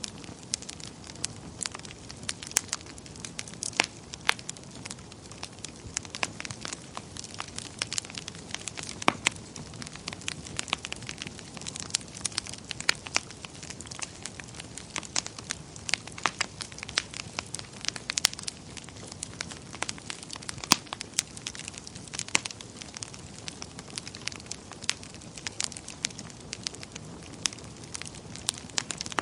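Wood fire burning in a fireplace: a steady low rush of flames with frequent sharp, irregular crackles and pops of burning logs.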